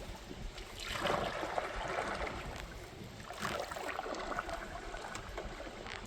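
Water splashing around a kayak on a river, rising twice: once about a second in and again about three and a half seconds in.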